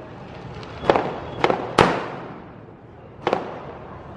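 Firecrackers going off: four sharp bangs at uneven intervals, about a second in, twice more shortly after, and one near the end, each with a short echoing tail.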